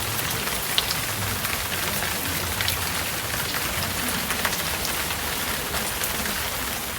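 Steady rain falling hard, a dense hiss with scattered sharp drop ticks close by, over a low steady hum.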